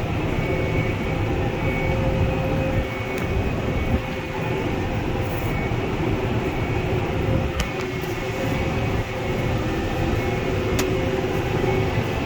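Tractor and high-density hay baler running steadily while baling, a continuous low mechanical rumble and drone with a few sharp clicks spread through it.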